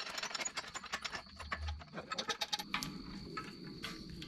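Quick metallic clicks and clinks of small engine parts and hand tools being handled during a teardown: a busy rattle that thins out after about three seconds.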